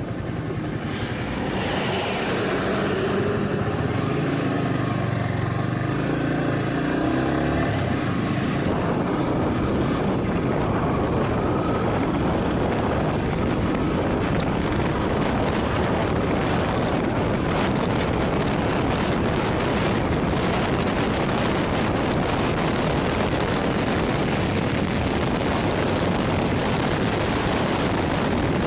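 Yamaha R15 V3 motorcycle's 155 cc single-cylinder engine running under way, its note clear for the first several seconds. From about eight seconds in, a steady rush of wind noise at riding speed covers it.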